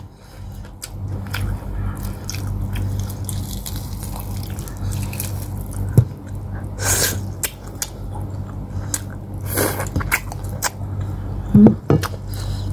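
Close-up mouth chewing of boiled pork hock and rice eaten by hand: wet smacks, squishes and clicks, with a louder smacking burst about seven and ten seconds in. A steady low hum runs underneath.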